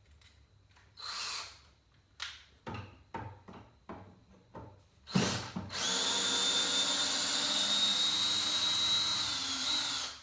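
A few short handling knocks and clicks, a thump about five seconds in, then a power drill running a screw steadily for about four seconds, its whine sagging just before it stops near the end.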